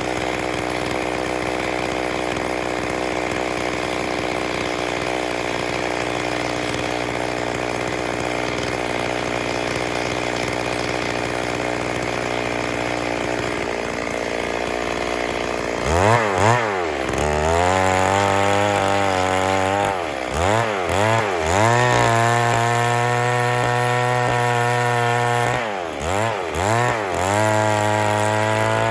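Stihl MS 382 two-stroke chainsaw running at a steady speed, then from about sixteen seconds in revved repeatedly, the engine note rising and falling several times with held high-speed stretches between.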